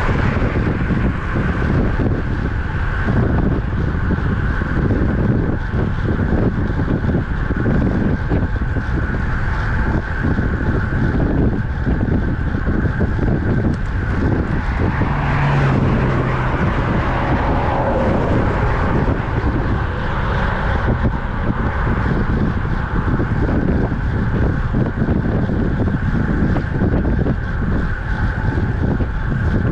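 Steady wind rush buffeting the microphone of a road bike moving at speed, mixed with continuous tyre and road noise.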